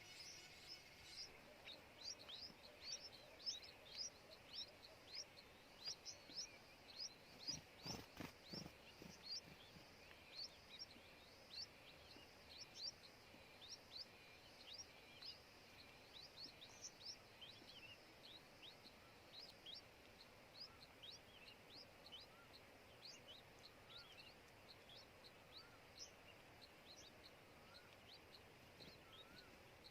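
Small bird chirping: a steady run of thin, high chirps, each a quick downward sweep, about two a second. A brief low bump comes about eight seconds in, and soft rising whistled notes join in the later part.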